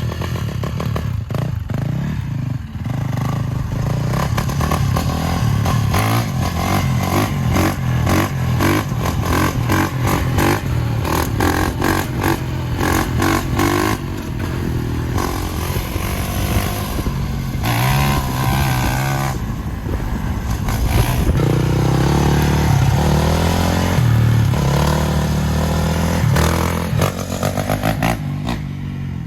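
2021 Yamaha YZ450F dirt bike's single-cylinder four-stroke engine under way, its pitch rising and falling as it accelerates, shifts and eases off, with rattling buffeting noise on the microphone.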